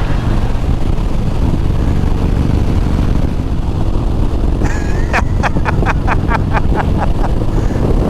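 Motorcycle engine running at road speed, with wind rushing over the microphone. A little past halfway there is a quick run of about a dozen short sharp clicks over some three seconds.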